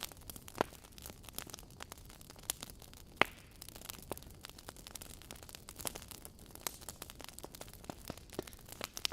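Wood fire burning in a fireplace: logs crackling with frequent irregular pops and snaps over a low steady hiss, one sharper snap about three seconds in.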